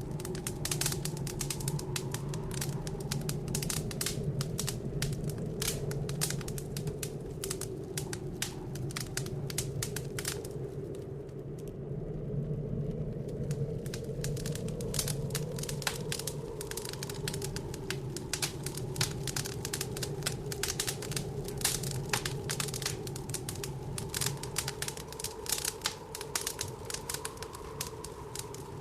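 Wood fire in a fireplace crackling with many irregular snaps and pops, over a low, wavering howl of blizzard wind outside. The crackling thins out briefly midway.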